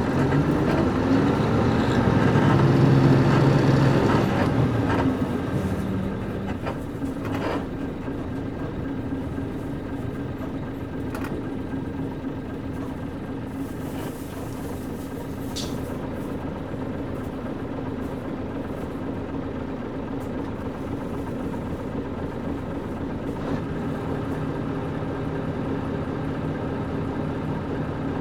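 Nissan Diesel KC-UA460LSN bus with its PG6 diesel engine, heard from inside the cabin: the engine climbs in pitch and is loudest for the first few seconds, then settles to a steady low drone. A few short clicks or rattles come through the body about a third and halfway through.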